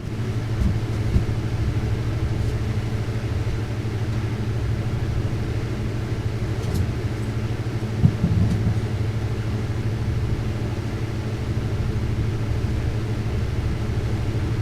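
Steady low rumble and hum of a lampworking bench, the glassblowing torch flame and shop ventilation running continuously, with a couple of brief light ticks.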